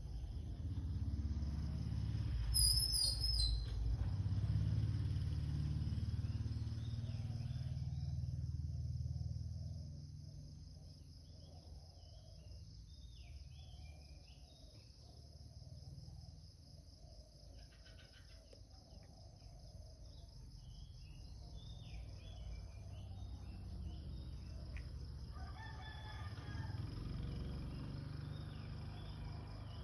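Outdoor rural ambience: a steady, high-pitched insect drone with scattered bird calls, including a bright call about three seconds in and another around three-quarters of the way through. A low rumble fills roughly the first third, then fades.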